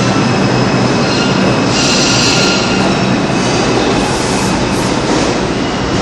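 R142A subway train running into the station with a loud, steady rumble of wheels on rail. High-pitched wheel squeal rises over it about two seconds in.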